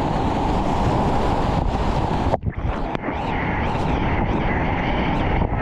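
Rushing whitewater and wind buffeting the microphone as a kayak runs a river rapid. About two and a half seconds in, the sound changes abruptly and the rushing water continues a little duller.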